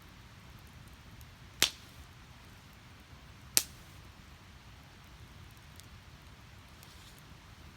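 Split firewood burning, giving two sharp loud pops about two seconds apart, with a few faint ticks of crackle later over a low steady background.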